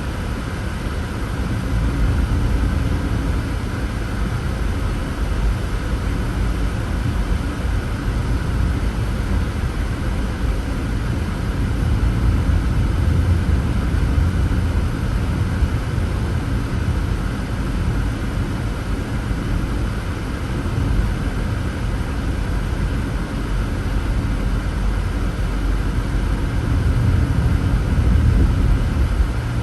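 Steady low rumble of a car being driven, tyre and engine noise heard from inside the vehicle, swelling a little now and then without breaks.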